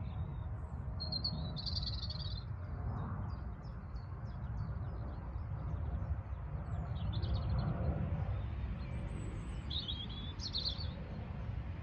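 Small birds chirping in a few short bursts over a steady low rumble.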